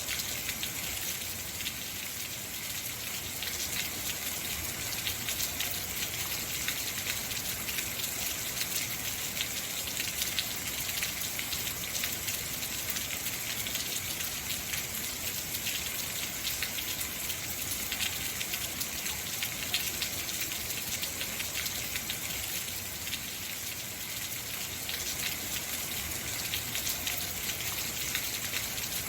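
Heavy rain falling steadily, a dense even hiss of drops with fine patter.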